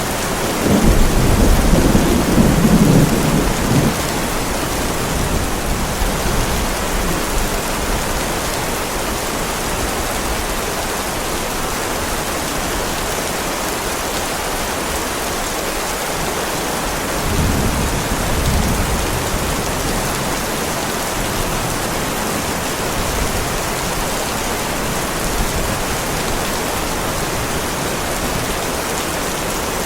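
Heavy rain falling steadily on a driveway. A rumble of thunder swells in the first few seconds, and a weaker one comes about two-thirds of the way through.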